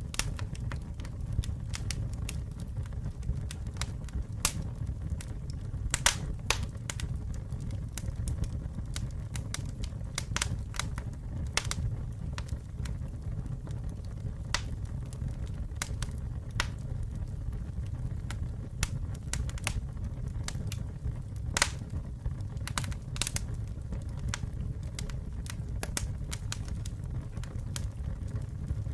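Wood campfire burning with a steady low roar and irregular sharp crackles and pops, a few of them loud.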